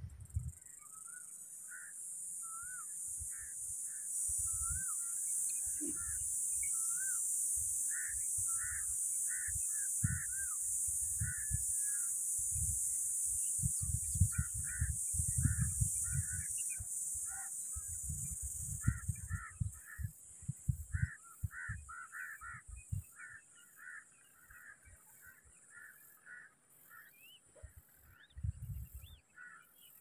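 Bird calls: runs of short, repeated notes, some sweeping quickly upward, with a steady high hiss for the first two-thirds and scattered low thumps.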